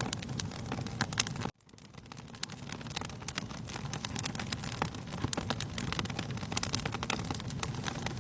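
Wood fire crackling, with frequent sharp pops over a low steady rumble. About a second and a half in the sound cuts out abruptly and then fades back in.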